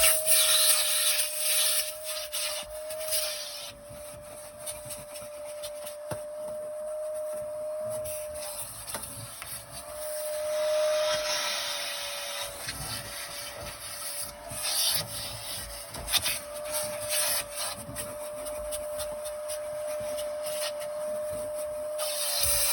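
Vacuum cleaner running with a steady motor whine, its nozzle rubbing and scraping over car carpet; the whine dips slightly as the nozzle is pressed down.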